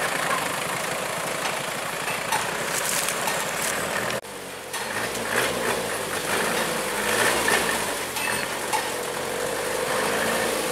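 A motor vehicle engine running steadily, mixed with road and wind noise. The sound breaks off sharply for a moment about four seconds in, then carries on with a steady droning tone.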